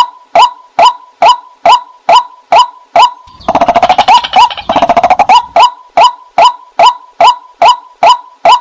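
White-breasted waterhen calls, a repeated 'kwak' note about twice a second. About three and a half seconds in the notes break into a fast chattering run, then the steady notes resume. This is the call used to lure waterhens in.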